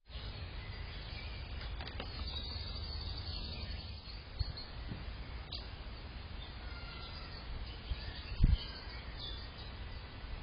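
Steady low background noise with faint bird chirps, and a couple of short knocks, the loudest about eight and a half seconds in.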